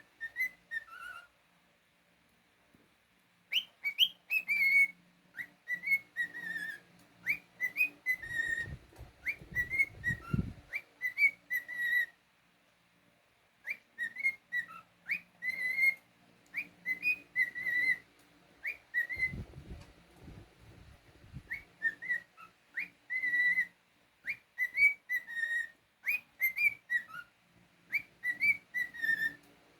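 Cockatiel whistling a song of many short, quick notes that glide up and down, broken by brief pauses. A low rumble comes in twice under the whistling.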